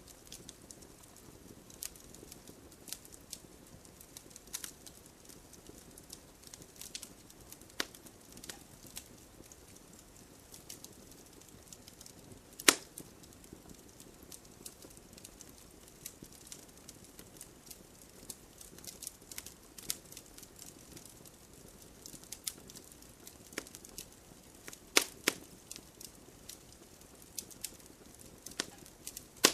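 Wood campfire crackling: irregular small pops and snaps from the burning wood over a soft low hiss, with two sharper, louder pops, one about halfway through and one a few seconds before the end.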